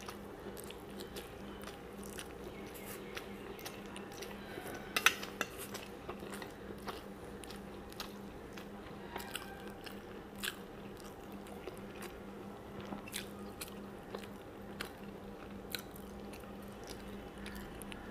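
A person chewing food close to the microphone with the mouth closed: soft mouth clicks and lip smacks, one louder about five seconds in, over a low steady hum.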